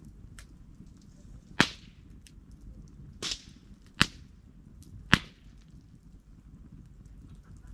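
Firewood burning in a campfire, crackling with four sharp, loud pops between about one and a half and five seconds in, and faint small crackles between them over a low steady noise.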